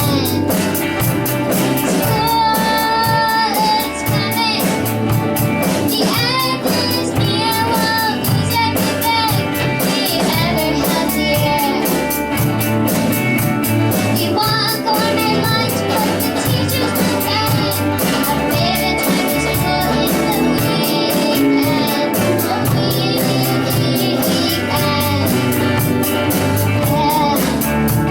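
Young rock band playing live: a child's voice sings the melody over guitar and a drum kit keeping a steady cymbal beat.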